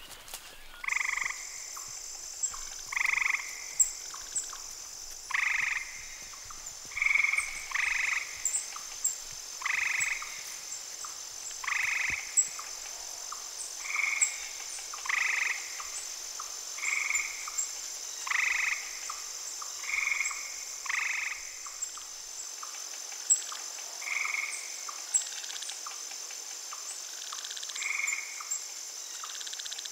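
Frogs croaking in short, repeated calls, about one every second or two, over a steady high insect drone.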